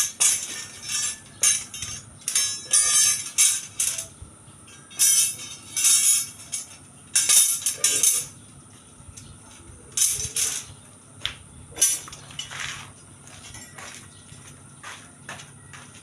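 Steel rebar stirrups and bars clinking and rattling against each other as they are handled, in irregular short bursts that come thick in the first half and sparser later.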